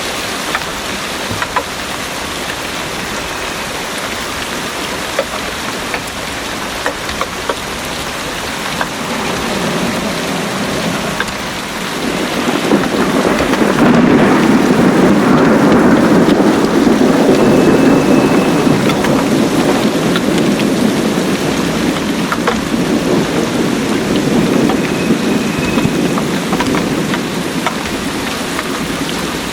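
Heavy rain pouring steadily, with scattered close drips. About twelve seconds in, a long roll of thunder swells up, peaks, and slowly dies away over some fifteen seconds.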